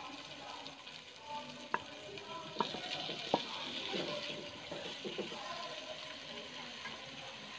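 Chopped liver sizzling in a non-stick pan of onion-tomato masala as it is added and stirred in with a wooden spatula. The spatula gives three sharp knocks on the pan in the first few seconds over a steady frying hiss.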